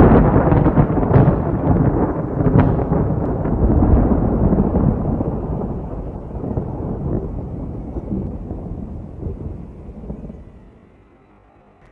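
Thunder rumbling in a long roll, with a few sharp cracks in the first three seconds, fading away over about ten seconds.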